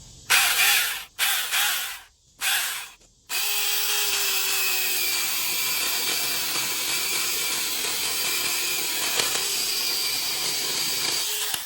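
Mini cordless electric chainsaw running in three short bursts, then continuously for about eight seconds before stopping.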